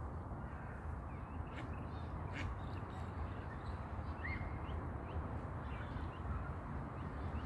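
Birds calling: a few short, sharp calls in the first three seconds and a brief rising chirp about four seconds in, over a steady low rumble.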